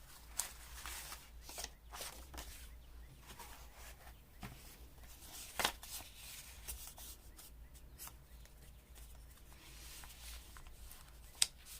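Paper rustling and crinkling as a stack of small papers is sorted through by hand, with a few sharp ticks and taps, the loudest about half a second, five and a half and eleven and a half seconds in.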